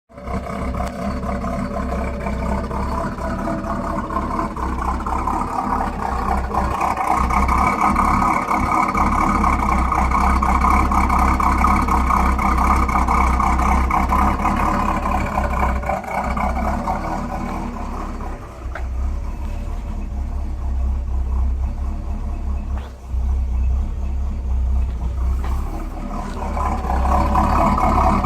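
1966 AMC Rambler Rebel's 327 V8, with a mild cam and a four-barrel carb, running through a new Hooker Aero Flow chambered muffler and dual stainless tips. The exhaust note grows louder a few seconds in, eases and dips briefly a few times around the middle, and swells again near the end.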